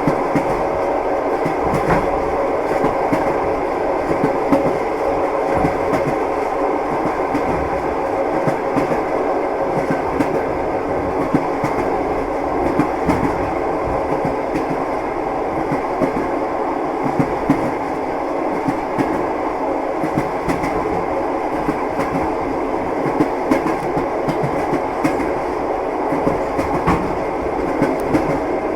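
Moving train with its wheels clattering over the rails: a steady rumble with frequent, irregular clicks and knocks.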